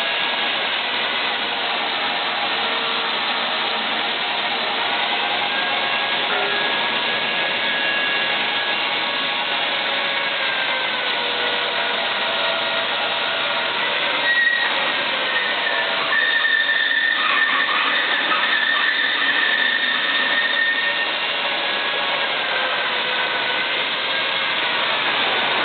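A PET bottle washing machine running: a steady mechanical whir with motor whines that slowly rise and fall in pitch. A sharp knock comes about halfway through, then a stronger, higher whine for a few seconds.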